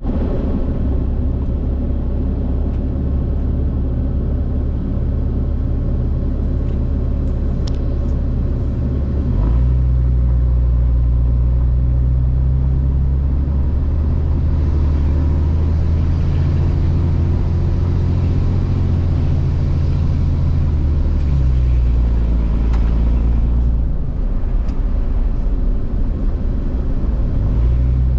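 Truck engine running steadily while driving, a loud low drone. Its note and level step up about nine seconds in and shift several more times later as the engine speed changes.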